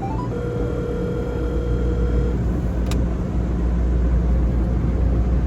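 Steady low vehicle and machinery rumble. At the start a short whine rises and then holds steady for about two seconds, and a single click comes near the three-second mark.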